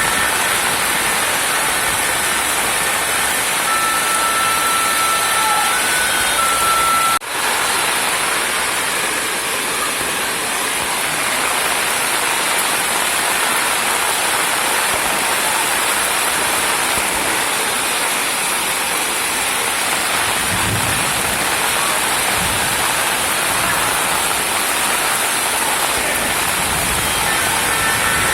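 Rushing water of a rain-fed waterfall pouring down a hillside: a loud, steady rush, broken once briefly about seven seconds in.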